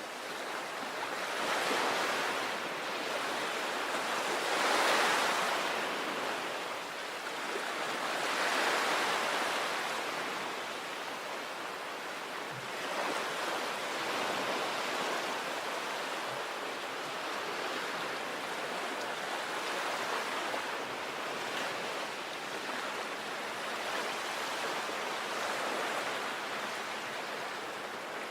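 Sea waves breaking and washing on a beach, a continuous surf with several louder swells in the first ten seconds, then a steadier wash.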